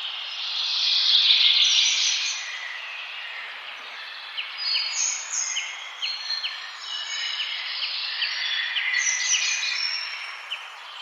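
Several forest birds singing and chirping over one another. A dense, loud burst of song comes in the first couple of seconds, followed by a run of short, quick repeated chirps at about two or three a second.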